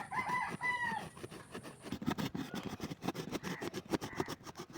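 A short pitched animal call, two arching notes lasting about a second, followed from about two seconds in by a quick, irregular run of clicks and taps.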